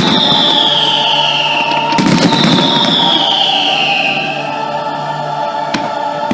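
Fireworks display with its show music playing throughout: a burst of crackling about two seconds in and a single sharp bang near the end, with two long falling whistles in the first four seconds.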